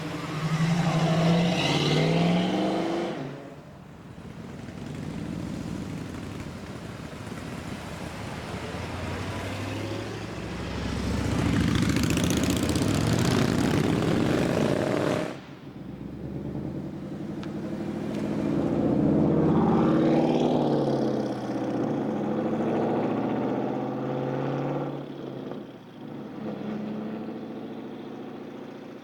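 Cars accelerating hard away one after another, their engines revving with loud exhausts: a short pull near the start, a longer, louder one in the middle that cuts off abruptly, and another rising pass later on.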